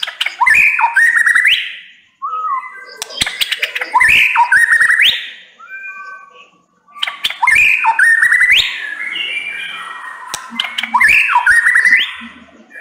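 White-rumped shama singing in three loud bouts: rising whistles mixed with sharp clicks and fast, chattering notes, with brief pauses between.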